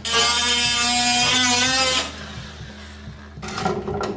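MIG welder laying a tack weld on a steel patch panel: a steady buzzing, crackling arc for about two seconds that cuts off suddenly.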